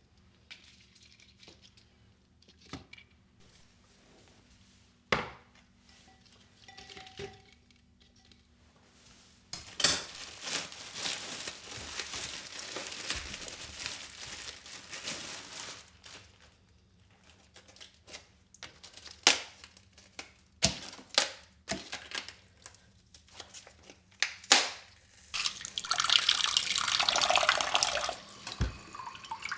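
A kitchen tap runs into a sink twice, once for about six seconds a third of the way in and again briefly near the end, with scattered clinks and knocks of dishes and utensils between.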